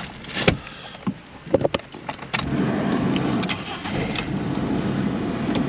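A few clicks of a key in a Fiat 500's ignition, then about two and a half seconds in the engine starts and settles into a steady idle.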